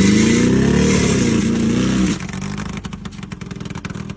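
Car engine revving loudly with its pitch rising and falling for about two seconds, then dropping suddenly to a lower, rough-sounding idle.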